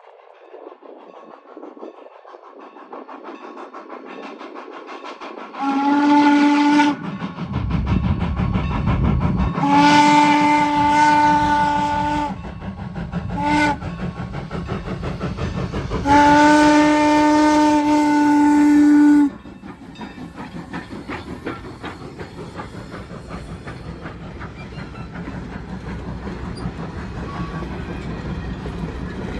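Steam whistle of Norfolk & Western 4-8-0 locomotive No. 475 blowing four blasts: long, long, a very short one, then the longest last, the grade-crossing signal. Under it the train's running and rail clatter grow steadily louder as it draws near.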